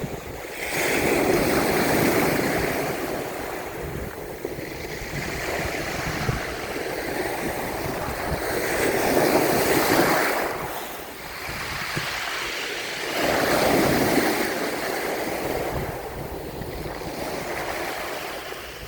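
Sea waves breaking and washing up the shore: a steady rush that swells into three surges and falls away between them.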